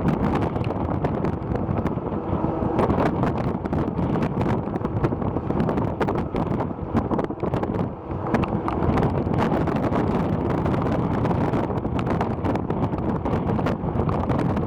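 Wind buffeting the microphone: a steady, gusting rumble with frequent crackles.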